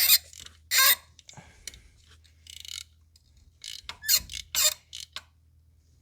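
Hand tools at work on a car engine's spark plugs: a few short, loud hissing bursts and a quick run of ratchet clicks, as a spark plug socket is worked loose and tight.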